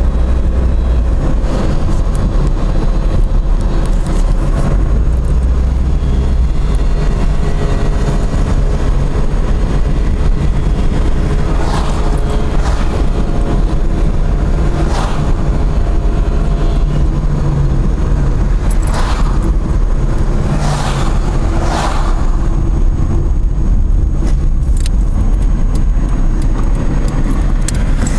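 Steady engine and road rumble of a Ford Escort being driven, heard from inside the car. Several brief whooshes come through about halfway in.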